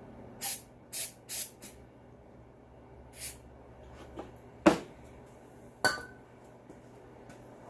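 Aerosol starter fluid sprayed into a two-stroke leaf blower engine's intake in four quick short bursts, then one more about three seconds in. Two sharp clicks follow.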